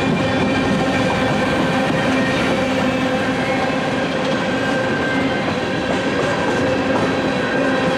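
Freight train rolling steadily past, the rumble and rattle of cars on the rails with a few held tones riding over it.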